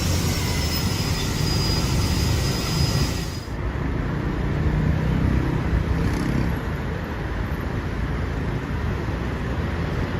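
Steady low rumble of vehicles running by, with no voices. The sound changes abruptly about three and a half seconds in.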